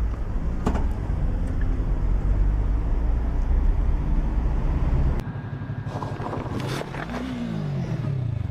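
Road vehicle engine running under heavy low wind rumble. About five seconds in, the sound cuts abruptly to a quieter scene with an engine note that rises and then falls, and one sharp knock.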